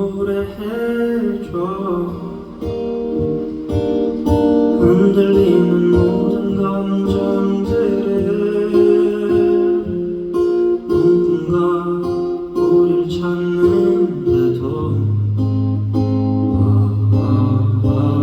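Band music in a guitar-led instrumental passage: strummed guitar chords over a steady rhythm, with a low held note coming in near the end.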